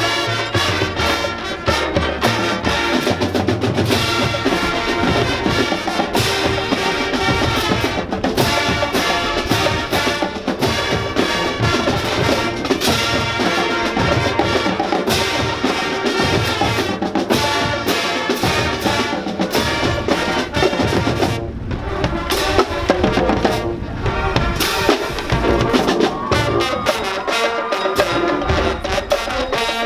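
High school marching band playing: brass sustaining a tune over a drumline's steady, dense drumming.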